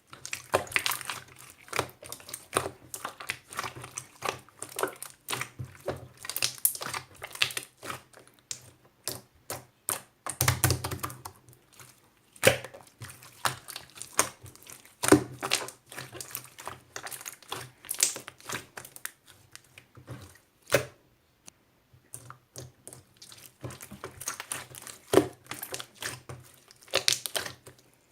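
Quick, irregular clicks and taps, like typing, with a short lull about three-quarters of the way through.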